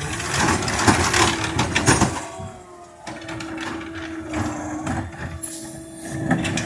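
Autocar McNeilus ZR rear-loader garbage truck at work: a quick run of metal clanks and bangs in the first two seconds, then a steady drone from the truck's running machinery.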